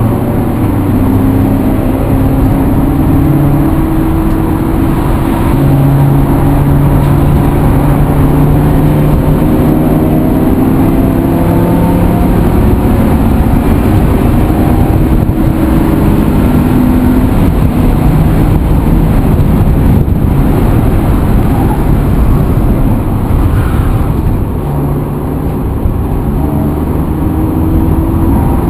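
Motor vehicle engine running under way, its pitch rising and falling repeatedly as it accelerates and changes gear, over steady road noise.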